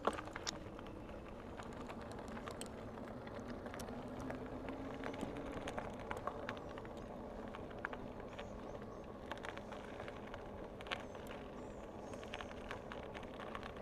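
Bicycle riding along a trail: a steady rolling noise from the tyres and moving air, with scattered small clicks and rattles from the bike.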